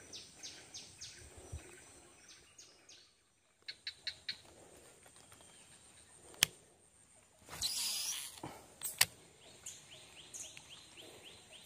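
Quiet swamp ambience with small birds chirping in short, quickly repeated calls near the start and again near the end, broken by a few sharp clicks and a brief rush of noise about eight seconds in.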